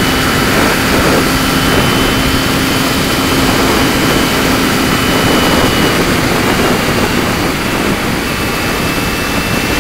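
Heavy wind noise at 70 mph on a Kawasaki Ninja 250, over the steady drone of its parallel-twin engine at constant revs through a Pipewerx exhaust with the baffle in. The wind largely covers the exhaust note, which eases a little near the end.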